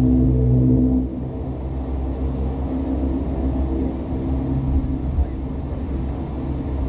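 Dash 8 Q400 turboprop engines and propellers heard from inside the cabin: a steady droning hum with a low rumble. It drops in level about a second in, then runs evenly.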